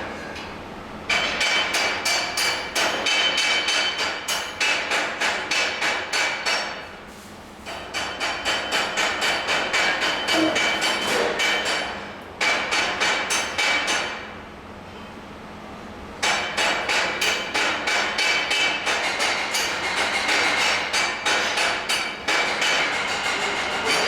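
Rapid hammer blows on metal, about three a second, in four runs separated by short pauses.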